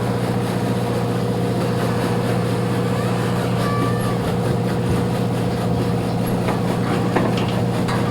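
Yacht's engines running with a steady low drone.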